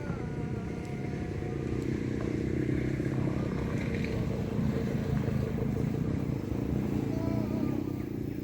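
Low, steady rumble of a motor vehicle running, a little louder through the middle.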